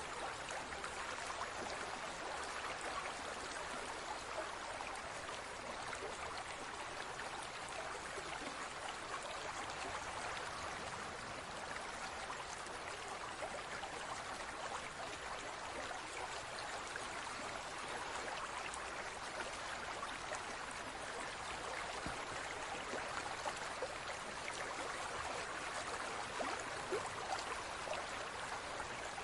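Steady trickling and splashing of water in a large aquarium, an even hiss with fine crackle that does not change.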